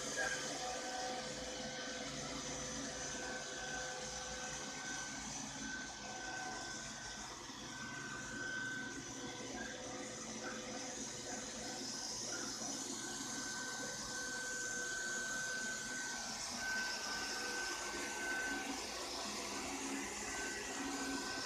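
Ropo Glass robot vacuum cleaner running steadily, its motor and brushes giving a steady hum with a high whine that fades in and out.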